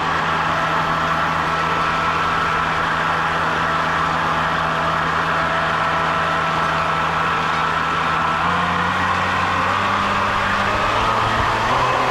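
A jet boat's motor running steadily with a constant hum and whine, its pitch shifting slightly up about two thirds of the way through.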